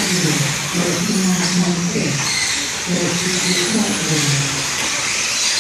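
Radio-controlled short course trucks running around a track, with steady motor whine and tyre hiss rising and falling as they accelerate. Voices murmur in the background.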